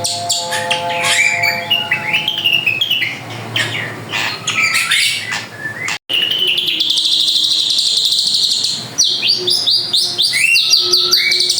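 Drongo (srigunting) singing hard: a varied run of quick rising and falling whistles, chatters and a buzzy trill, with a brief break in the sound about halfway through.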